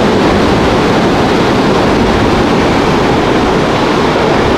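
Steady, loud rushing noise with no distinct events or pitch.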